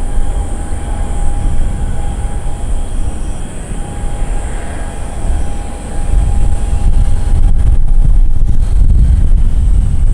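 Boeing 777-200 airliner's jet engines running, a heavy low rumble with a thin steady whine, growing louder about six seconds in.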